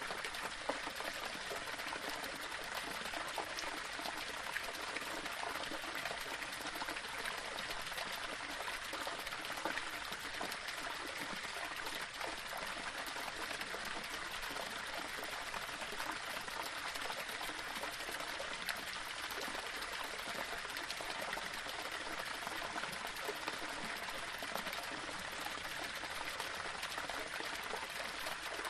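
Small waterfall splashing and trickling over rocks: a steady rush of running water with small scattered splashes.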